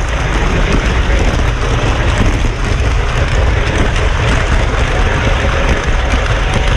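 Model train running on the layout track, a steady loud rumble with a faint motor whine near the end.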